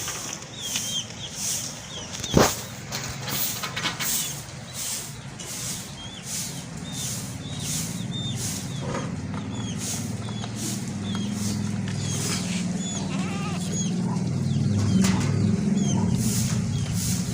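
Goat bleating, over high chirping that repeats about twice a second. There is a single sharp knock about two and a half seconds in, and a low rumble builds up in the second half.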